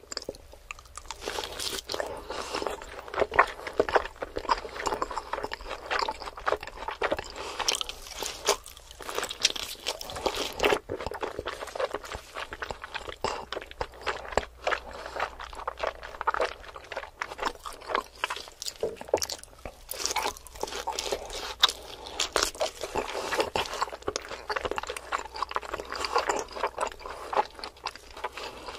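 Close-miked chewing and biting of thick slices of roast meat with crisp browned skin: dense, crunchy, wet mouth sounds made of many quick clicks and crackles.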